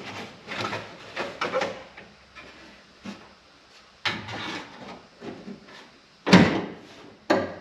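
Steel inner rocker panel being worked into place in a car's body: a string of clunks and scraping rubs, with the two loudest knocks near the end.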